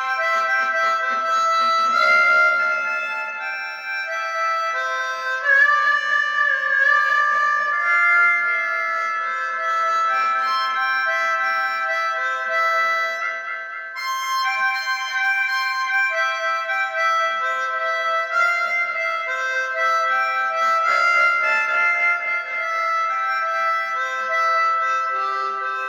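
Instrumental music: a melody of long held notes and chords on a reed wind instrument.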